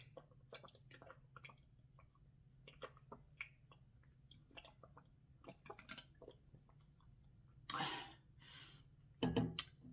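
A person chewing seafood, with many small wet clicks and smacks of the mouth. Two louder, noisier mouth sounds come near the end.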